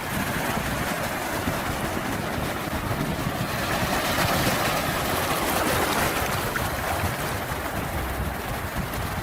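Sea waves washing in, a steady rushing that swells a little in the middle.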